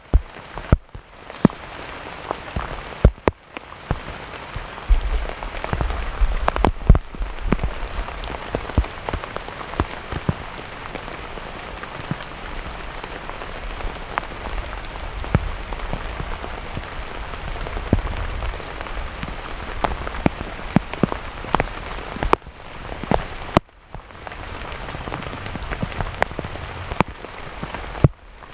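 Heavy rain falling, with drops striking close to the microphone in frequent sharp taps.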